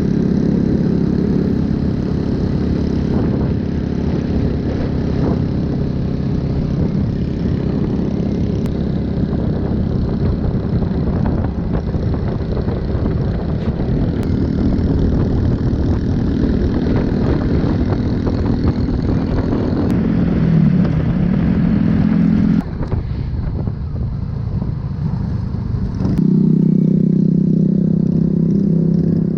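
Motorbike engine running steadily while riding, over a rush of wind and road noise. About twenty seconds in the engine note falls as the bike slows and the sound drops for a few seconds, then the engine comes back louder near the end.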